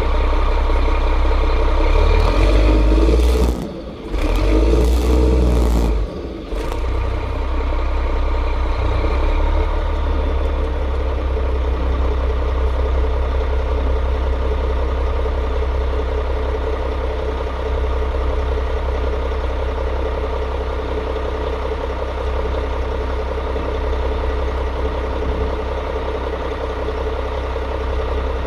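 Cummins M11 inline-six diesel of a 1998 Gillig Phantom high-floor bus running with a throaty exhaust note. It is louder for the first several seconds, broken by two brief drops about four and six seconds in, then settles into a steady low drone.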